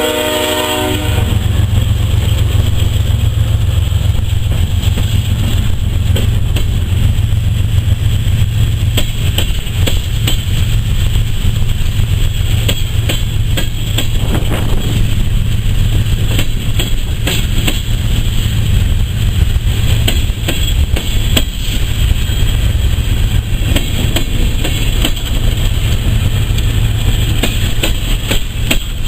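The chord horn of a BNSF ES44AC locomotive cuts off about a second in. Empty coal hopper cars then roll past in a loud, steady rumble, with wheels clicking over the rail joints.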